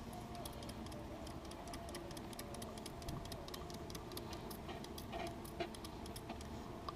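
A colony of honeybees humming in an open top-bar hive, with many light, irregular clicks and ticks over the hum.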